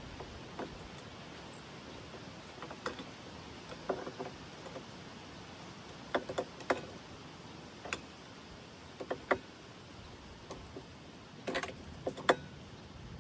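Irregular clinks and knocks of hand tools and metal parts, about a dozen sharp separate strikes with pauses between, as the sawmill's splitter and saw guides are adjusted. The loudest knocks come near the end.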